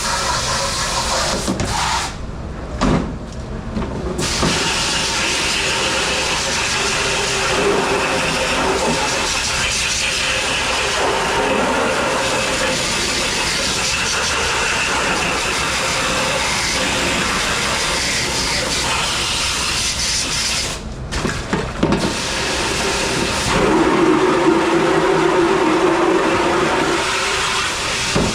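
Water spraying with a steady loud hiss in a commercial dishwashing station. The hiss breaks off briefly twice, once about two seconds in and again about twenty seconds in, and a steady hum joins it near the end.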